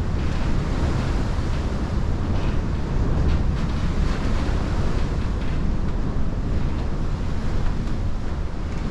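Very strong wind gusting against the building and buffeting the microphone, with the room's roof squeaking in it.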